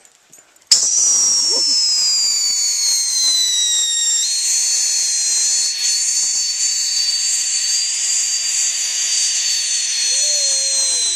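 Ground fountain firework (a "volcano") spewing. It catches suddenly under a second in, then gives a loud steady hiss with high whistling tones that slowly fall in pitch, jumping up again about four seconds in.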